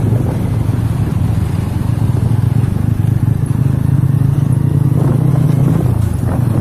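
Truck diesel engine running steadily with a low, even drone.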